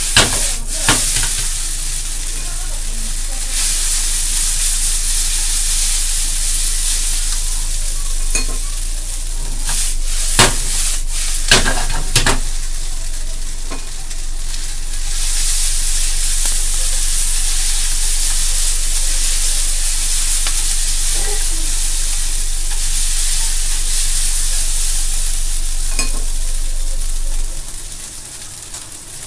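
Noodles, cabbage and meat sizzling in a nonstick frying pan on a gas stove as the pan is shaken and tossed, a steady hiss broken by a few sharp knocks. The sizzle drops away about two seconds before the end.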